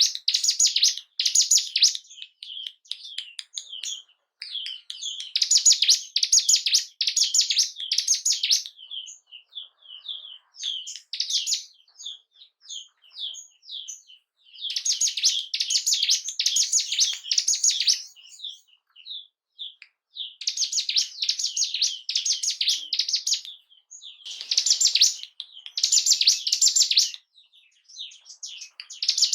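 Ciblek gunung songbird singing: repeated loud bursts of rapid, high chirping notes lasting two to three seconds each, with quieter single notes in between.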